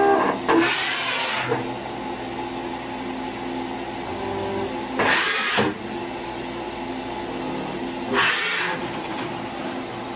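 Daewoo DMV5025-50 CNC vertical machining center running with a steady machine hum, broken three times by a short loud hiss lasting about half a second to a second: about a second in, about five seconds in and about eight seconds in.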